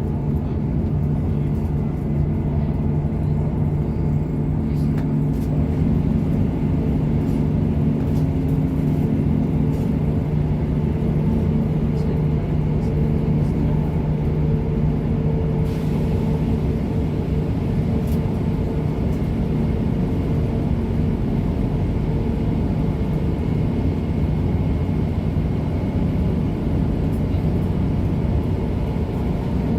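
A train running slowly or standing at a station platform: a steady low rumble with several held low tones that shift slightly about ten seconds in.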